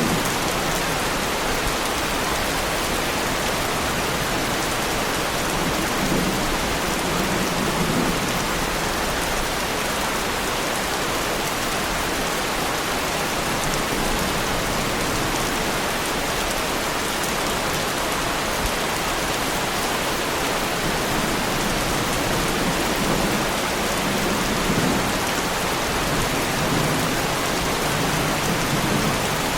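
Heavy rain falling steadily on a car, a dense, even patter, with a couple of low thunder rumbles swelling under it.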